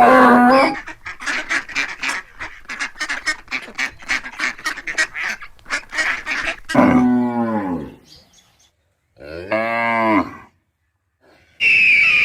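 A fast run of short, repeated waterfowl honking calls for about six seconds, then two cow moos, the first falling in pitch, the second rising and falling. A short high-pitched call begins near the end.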